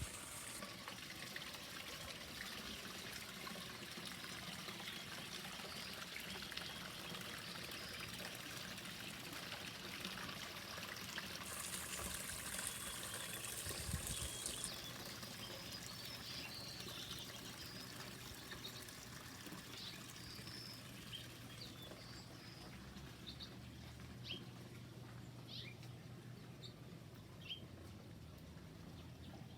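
Water trickling steadily, with a short low thump about halfway through. Birds chirp in short calls through the last several seconds.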